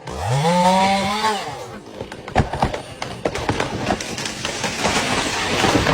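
Chainsaw engine revving up briefly and dropping back, then a run of sharp cracks and snaps over a rushing noise, typical of wood splitting and branches breaking as a tree comes down.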